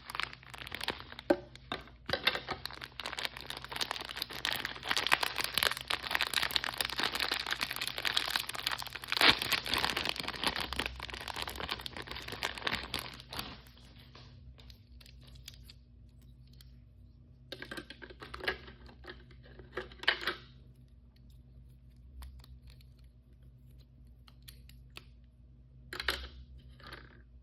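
Plastic blind-bag packaging being crinkled and torn open by hand. It is dense and continuous for about the first half, then turns quieter, with a few short bursts of crinkling.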